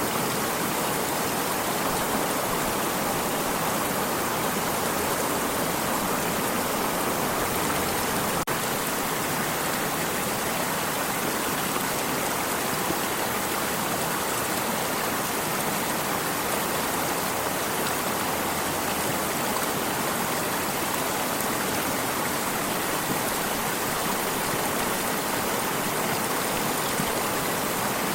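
A stream of water flowing, a steady, even rushing.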